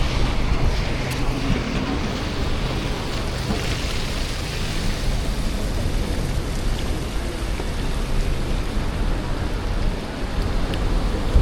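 Steady low rumble of city street traffic mixed with wind buffeting the microphone.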